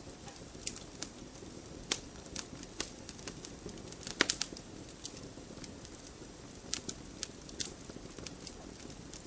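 Wood fire crackling in a fireplace: irregular sharp pops and snaps over a low steady rush of flames, with a quick cluster of louder pops about four seconds in.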